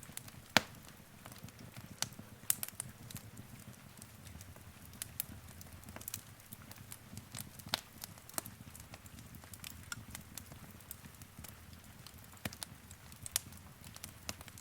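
Fireplace fire crackling: irregular sharp pops and snaps over a low, steady rumble of flame. The loudest pop comes about half a second in.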